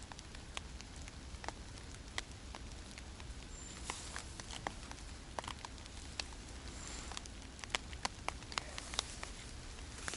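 Rain falling and dripping: irregular sharp drop ticks, several a second, over a faint steady hiss.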